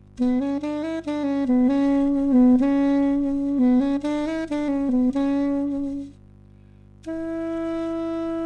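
Solo melody on a single wind instrument: a phrase of short notes stepping up and down, a pause of about a second, then one long held note.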